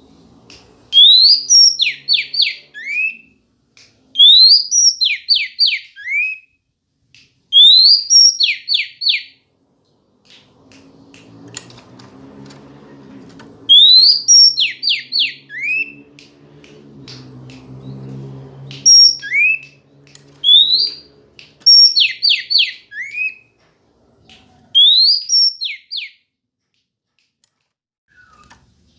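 Female Oriental magpie-robin calling, a loud phrase repeated about every three seconds: a rising whistled note followed by three or four quick falling notes. A faint low hum sits underneath through the middle.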